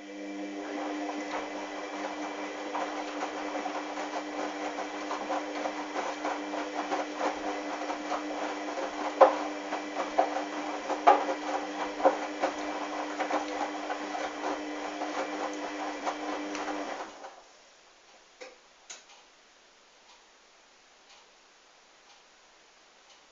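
Hoover washing machine's motor turning the drum during the wash: a steady whine with many small knocks and clicks from the tumbling towels. It winds down and stops about seventeen seconds in, the pause in the wash action, leaving only faint ticks.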